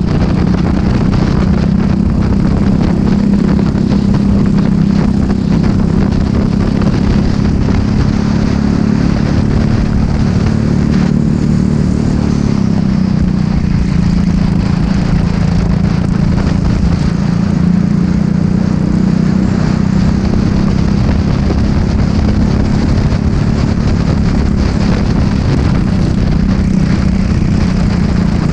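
Racing go-kart engine running hard and steady, its pitch dipping briefly about twelve seconds in and then climbing back.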